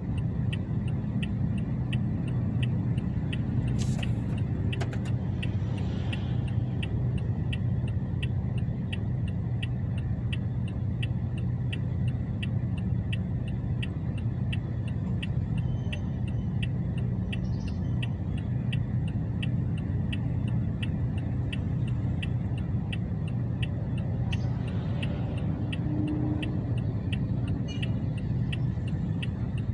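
Car engine idling, heard from inside the cabin as a steady low rumble while stopped at a traffic light, with a regular ticking of about two a second throughout. A couple of brief clicks come about four to six seconds in.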